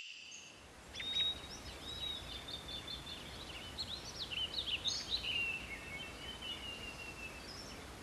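Songbirds chirping and whistling in quick, varied notes over a steady hiss of forest ambience, with one long, slowly falling whistle around the middle.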